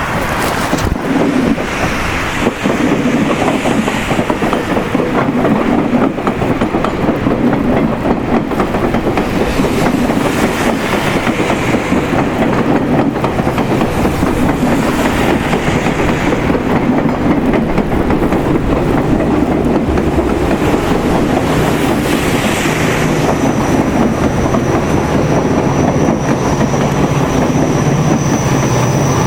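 A rail vehicle running with a steady loud rumble and the clickety-clack of wheels over the track. A thin high tone joins in near the end.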